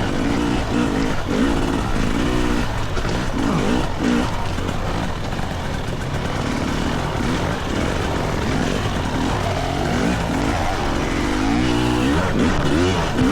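GasGas EC300 two-stroke dirt bike engine revving up and down as it is ridden over rough singletrack, with the throttle opening and closing again and again.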